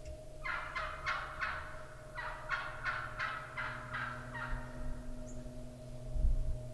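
Wild turkey yelping: a series of about ten short yelps, about three a second, in two runs, fading out about four and a half seconds in.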